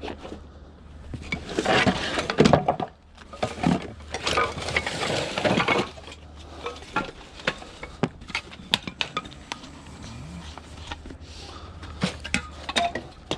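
Scrap metal clattering and clinking as pieces are moved and stacked in a van: a dense run of clanking in the first half, then scattered sharp clinks, over a steady low hum.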